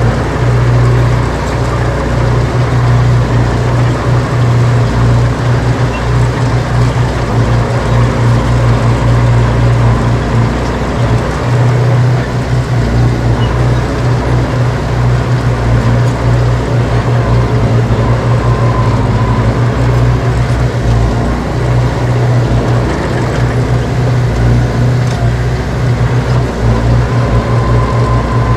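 Diesel engine of heavy earthmoving machinery running steadily, with a deep, unbroken low drone.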